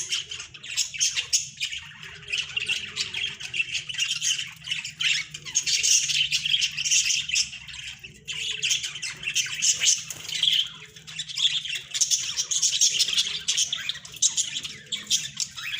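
A flock of budgerigars chattering and squawking continuously, many short calls overlapping.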